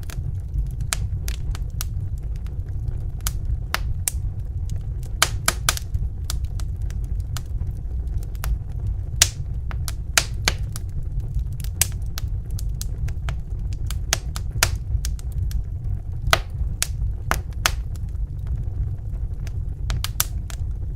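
Log fire crackling in a fireplace: a steady low rumble of burning with irregular sharp pops and snaps, some coming in quick clusters.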